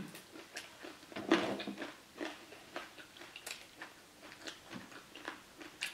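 A person biting and chewing a fried wonton close to the microphone: a string of small, sharp crunches and mouth clicks, with a louder cluster about a second and a half in.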